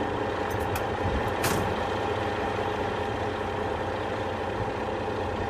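Heavy tow truck's diesel engine idling steadily, with a short hiss of released air about a second and a half in.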